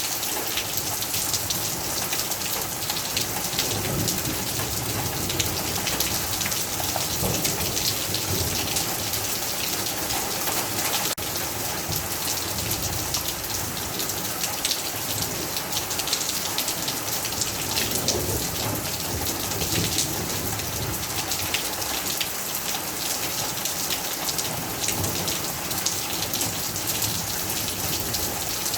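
Heavy rain falling steadily, a dense pattering of drops on a surface, with low rumbles of thunder a few times underneath.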